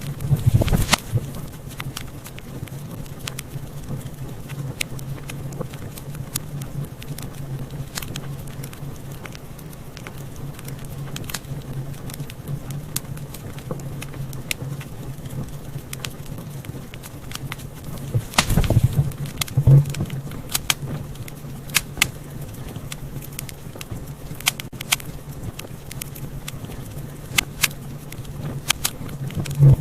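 Wood fire crackling in a fireplace: scattered sharp pops and snaps over a low steady hum. A cluster of louder pops comes about two thirds of the way through.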